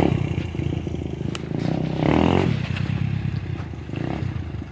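A 125cc four-stroke dirt bike engine revving as it rides through mud. It swells to a louder rev about two seconds in, then settles.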